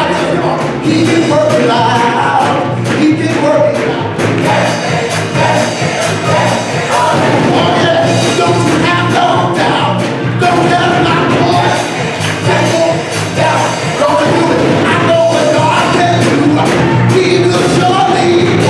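Gospel choir singing with a full band, a steady beat throughout.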